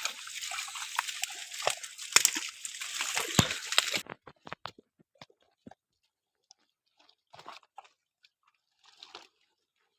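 Water splashing and sloshing with sharp clicks as hands churn a shallow pond in search of a fish; it stops abruptly about four seconds in, leaving only faint scattered clicks and small wet noises.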